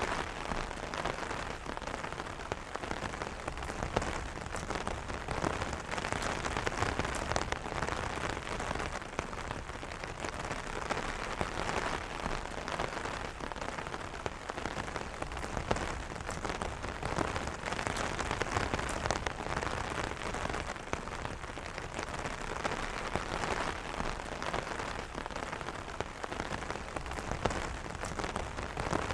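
Steady rain pattering on an umbrella canopy: a dense, even patter of countless small drop impacts.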